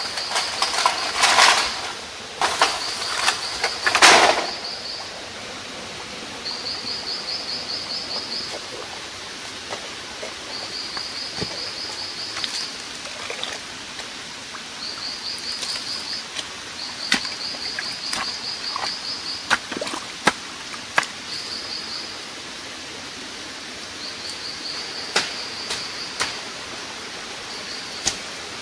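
Rainforest ambience: a steady hiss with a short, high, rapidly pulsing trill repeated over and over in bouts of one to two seconds. Loud rustling bursts come in the first few seconds, and sharp clicks are scattered through the second half.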